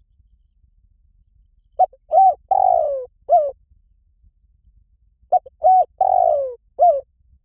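Spotted dove cooing: two matching phrases about three and a half seconds apart, each a quick short note, a coo, a long coo falling in pitch, and a short final coo.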